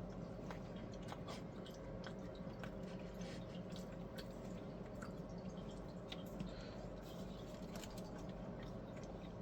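A person chewing a bready toaster pop-up: small, scattered mouth clicks over a steady low hum.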